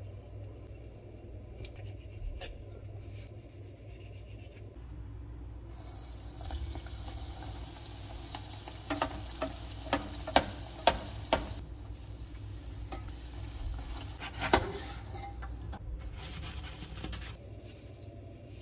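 Triangles of mandazi dough deep-frying in hot oil, sizzling steadily from about five seconds in, with a run of sharp clicks from a metal spoon against the metal pot around the middle. The first few seconds hold only a low hum and faint taps.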